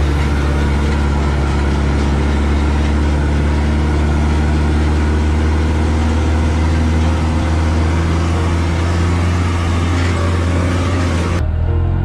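Off-road vehicle engine running loud and steady, holding one pitch without revving; the sound changes abruptly near the end.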